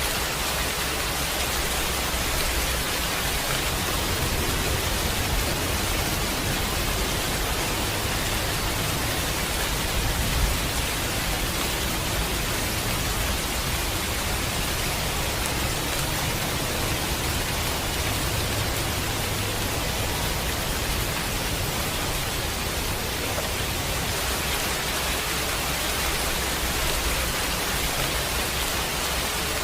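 Steady heavy rain, a dense even hiss, with low rumbles of thunder swelling and fading underneath, twice over.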